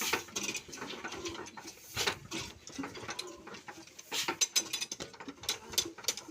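Irregular mechanical clicking and clattering, like metal parts being handled or worked.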